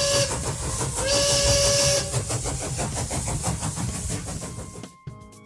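Steam locomotive sound effect: a whistle blast with steam hiss about a second in, following the tail of an earlier blast, then a steady run of rhythmic chuffing that fades near the end.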